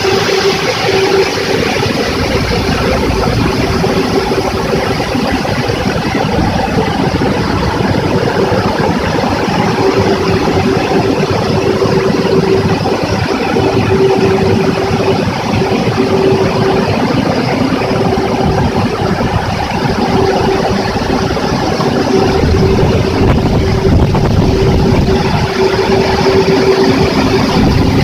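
Automatic car wash machine running: a loud, steady rush of water and machinery with a hum that fades in and out, getting deeper near the end.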